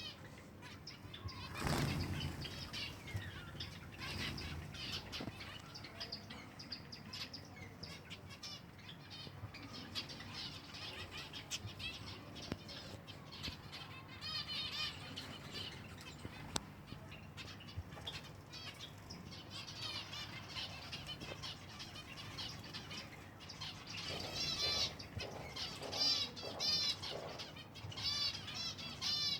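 Silver Java sparrows fluttering their wings, with a louder flurry about two seconds in, among many small clicks. Bursts of short, quick chirps come midway and more thickly near the end.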